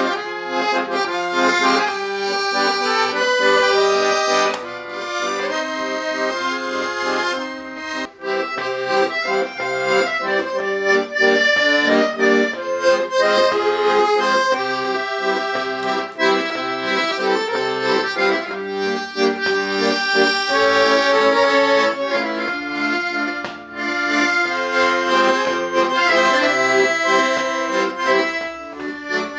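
Accordion playing a tune, melody over sustained chords, with short breaks in the sound about eight seconds in and again about two-thirds of the way through.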